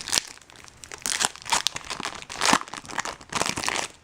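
Foil wrapper of a Bowman Chrome baseball card pack crinkling and crackling in irregular bursts as it is torn open and handled.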